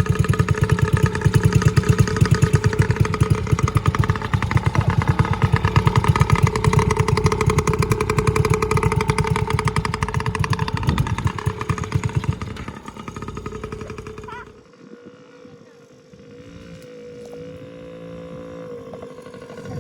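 A small off-road vehicle engine running loud and close with a fast, even firing pulse. It fades away about two-thirds of the way through, leaving a quieter engine hum that wavers in pitch.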